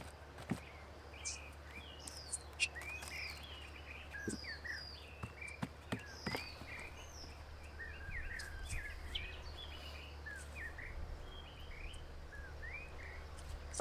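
Small birds chirping and calling, many short twittering notes throughout, with a few sharp clicks in the first half and a steady low hum underneath.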